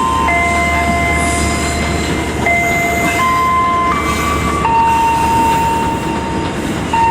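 Passenger train running, heard from inside the carriage as a steady rumble. Over it, a series of held tones steps from one pitch to another every second or two.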